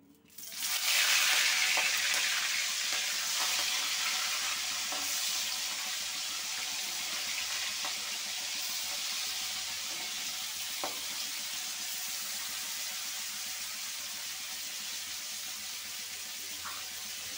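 Whole prawns go into hot soybean oil in a wok, which bursts into sizzling about half a second in. The sizzle is loudest at first, then settles into a steady frying sizzle that slowly eases.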